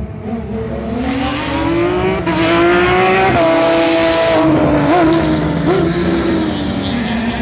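Rally car engine accelerating hard, its pitch climbing for about three seconds, then dropping, with two short throttle blips as it slows and settles into a steadier lower note.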